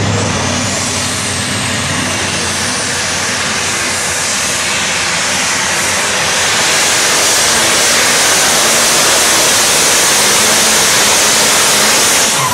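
Super stock diesel pulling tractor, multi-turbocharged, running flat out under full load during a pull. A loud, steady rush of engine and turbocharger noise with a faint rising whine at the start, growing slightly louder past the middle.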